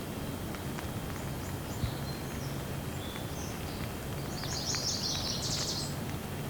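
Steady rain with scattered faint drips, and a small bird chirping repeatedly with high calls, busiest about five seconds in.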